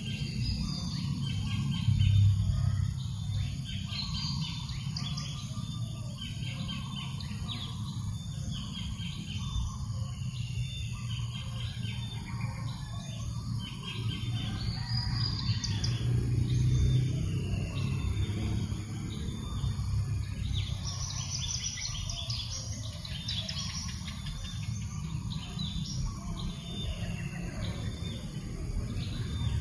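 Many wild birds chirping and calling in short, overlapping phrases, over a steady low rumble of breeze.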